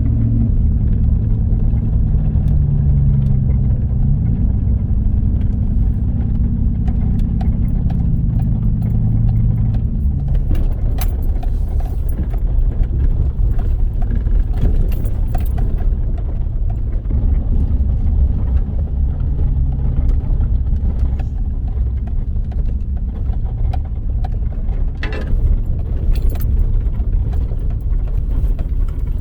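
Vehicle driving slowly over a rough dirt trail: a steady low engine hum for the first ten seconds or so, then mostly the rumble of tyres, with loose clicks and rattles from the vehicle throughout.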